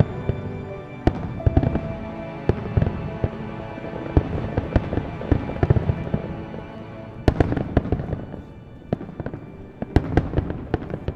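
Aerial fireworks bursting: a rapid string of sharp bangs and crackling, thinning out about eight seconds in before a few more bangs near the end. Music plays throughout underneath.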